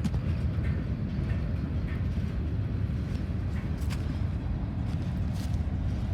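Freight train rolling slowly past: a steady low rumble with a few sharp clicks scattered through it.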